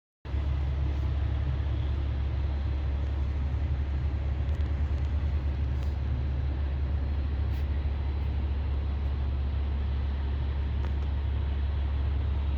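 Detroit Diesel 12V71 two-stroke V12 diesel running steadily through open 4-inch zoomie exhaust stacks, a deep, dense low rumble. It cuts in abruptly just after the start.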